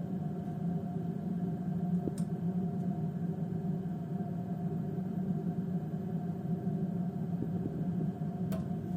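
Double-circuit gas boiler running while heating: a steady low hum, with two faint clicks, one about two seconds in and one near the end.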